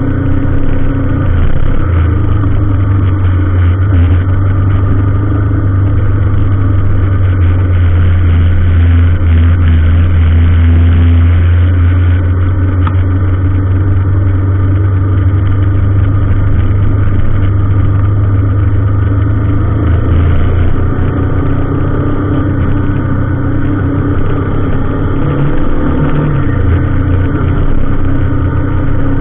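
A motor vehicle engine running steadily with a deep, continuous drone, shifting in tone briefly about two-thirds through.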